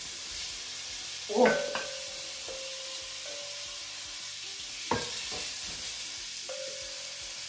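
Spiced chicken strips sizzling steadily in a hot non-stick frying pan as more are spooned in. A wooden spoon scrapes and knocks against a glass mixing bowl, with a louder scrape about a second and a half in and a sharp knock about five seconds in, each leaving a short ring from the glass.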